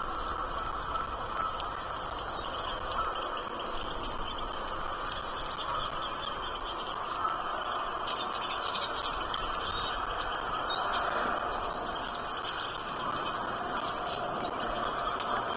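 Small birds chirping: short, high, rising chirps repeated about every half second, over a steady background hiss.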